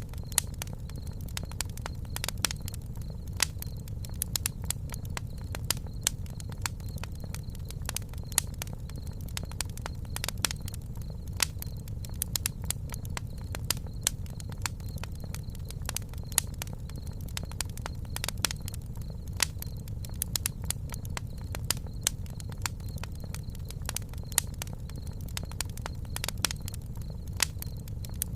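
Campfire burning with irregular sharp crackles and pops of wood over a steady low rumble of flame.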